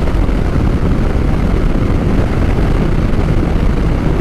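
Motorcycle under way on the open road: a steady engine drone under heavy wind rush on the microphone.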